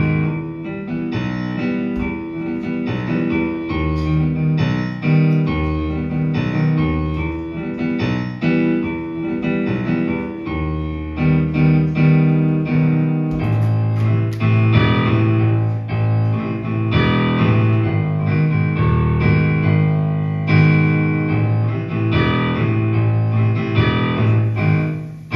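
Instrumental break of a live pop-folk song, played on keyboard: rhythmic chords over a changing low bass part, with no singing.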